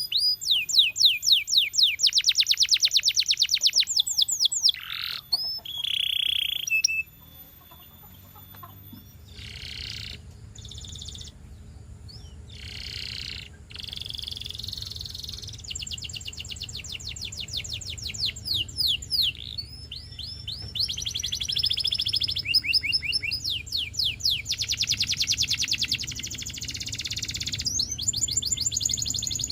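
Domestic canary singing: fast trills of repeated high sweeping notes. The song drops away briefly about a quarter of the way in, then resumes with more rolls, over a faint low hum.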